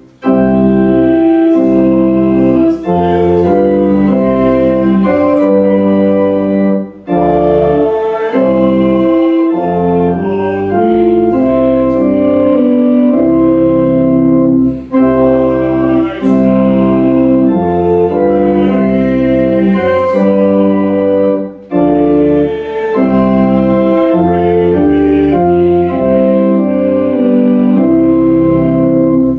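Church organ playing a hymn in sustained chords that change step by step, phrase by phrase, with short breaks between the lines.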